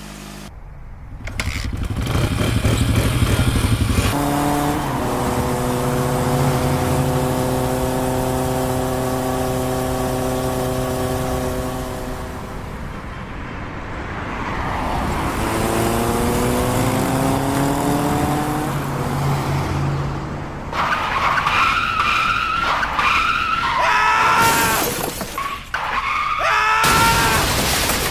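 Car engine sounds: a steady engine note, then an engine revving up in pitch, followed by a run of repeated tyre squeals in the last several seconds.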